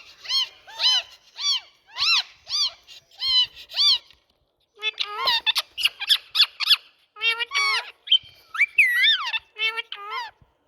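Indian ringneck parakeet calling: a string of short, shrill, arching calls about two a second, a brief pause about four seconds in, then quicker, more varied squawks.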